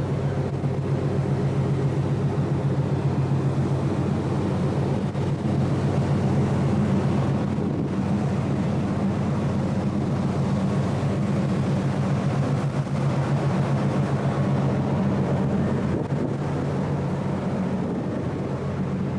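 A ship's engine running steadily: an even, low drone with a fast, regular pulse.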